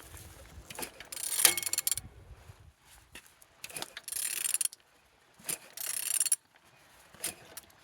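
Suzuki M13A 1.3-litre four-cylinder engine being turned over by hand, heard as about four bursts of ratcheting clicks and mechanical rattle. It turns freely, which shows the engine is not seized.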